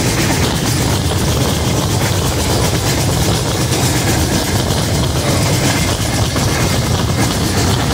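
Subak Raftar Express passenger train running at speed, heard beside the coach: a loud, steady rumble of the wheels on the track.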